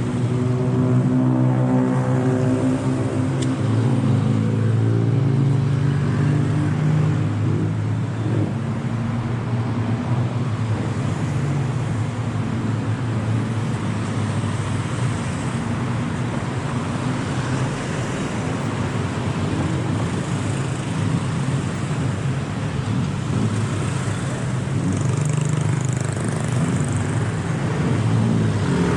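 Road traffic close by: vehicle engines running, one engine's pitch slowly falling over the first several seconds, then a steady mix of traffic noise.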